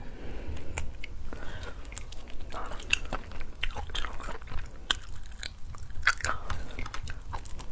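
A person biting and chewing cooked crayfish tail meat close to the microphone: a run of short, wet mouth clicks and smacks.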